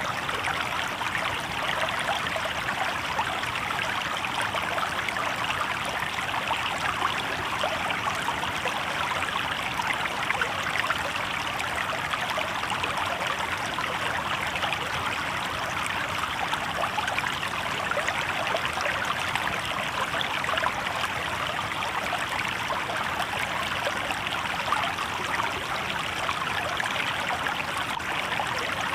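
Shallow river water babbling and splashing over rocks, a steady rushing sound.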